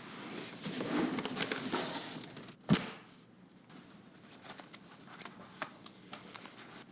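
Rustling and handling noise with many small clicks for about two seconds, then a single sharp thump, followed by faint scattered ticks.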